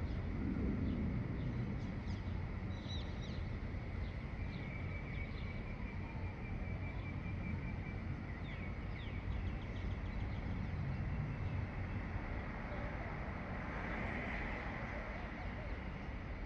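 Several songbirds singing at dawn: a run of short chirps and quick rising notes, with a fast trill a few seconds in, over a steady low background rumble.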